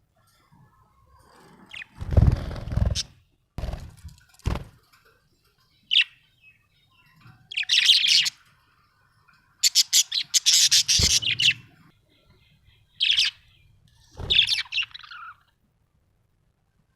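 Budgerigar chirping in short, high-pitched bursts, with a quick run of chirps about ten seconds in. A few thuds or rustles come a couple of seconds in.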